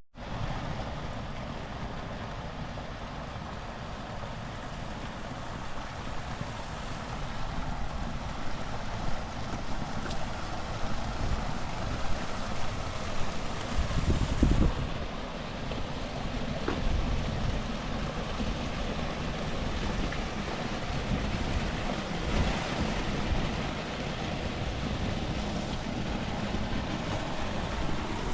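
Steady rain with wind buffeting the microphone, in gusts that grow louder about halfway through.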